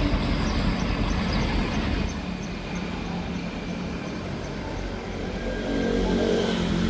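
An engine running steadily with a low hum, easing off about two seconds in and growing louder again near the end.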